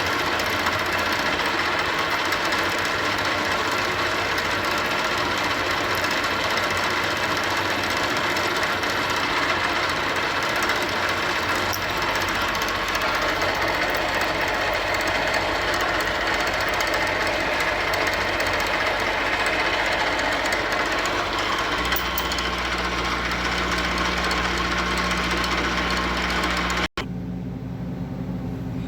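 A machine's electric motor running steadily and loudly. Near the end it cuts off abruptly and a quieter, lower hum follows.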